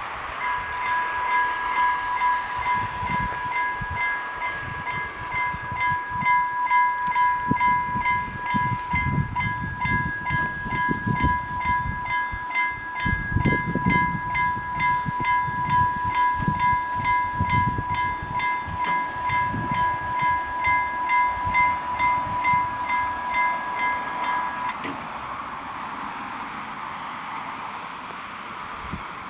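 Level crossing warning bells ringing to signal an approaching train: a steady two-tone electronic ring with a fast pulsing stroke on top, cutting off suddenly about 25 seconds in. Irregular low rumbling sits underneath.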